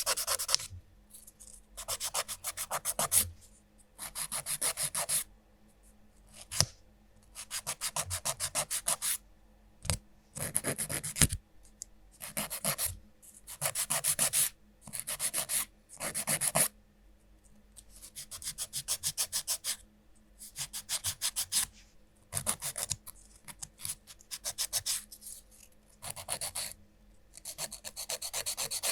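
A nail file rasping across fingernails in rapid back-and-forth strokes. It comes in bursts of one to two seconds, with short pauses between them.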